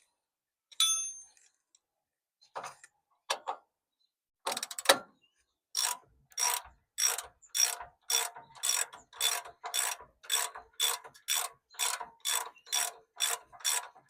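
Socket ratchet wrench clicking in steady, even strokes, a little over two a second, as a bumper mounting bolt is run down. Before that, a metallic clink with a short ring about a second in and a few scattered knocks.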